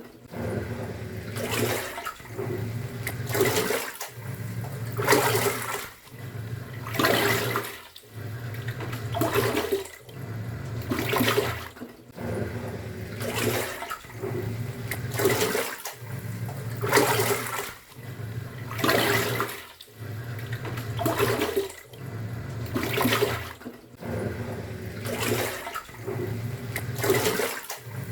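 Top-loading pulsator washing machine agitating a load: the motor hums as the pulsator turns, each stroke ending in a surge of sloshing water and a brief pause as it reverses, about once every two seconds.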